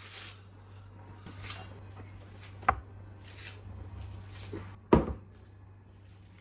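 Objects being handled on a hard surface: a few soft scraping swishes and two sharp knocks, the second, about five seconds in, the loudest, over a steady low hum.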